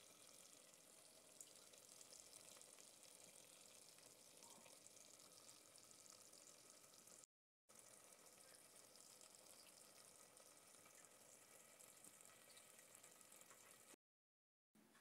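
Zucchini slices sautéing in a pot, a faint, steady fine sizzle and crackle that cuts out briefly about halfway and again near the end.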